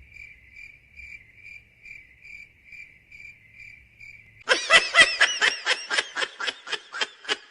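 Cricket chirping, a steady pulsing chirp about two to three times a second. About four and a half seconds in, it gives way to louder, rapid high-pitched giggling, a quick string of short laughs about four a second.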